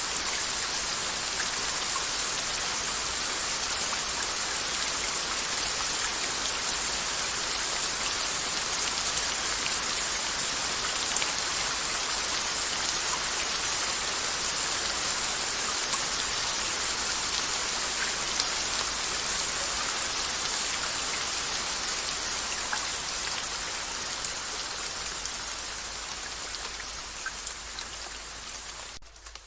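Steady rain with scattered single drops ticking. It fades somewhat over the last few seconds and drops low just at the end.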